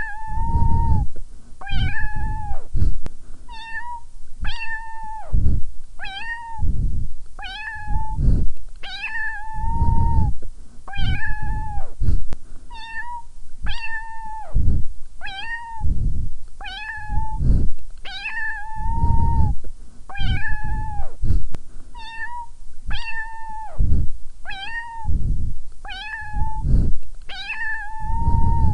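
A domestic cat meowing over and over, about one meow a second, each a fairly high call that rises, holds and drops away, some short and some drawn out.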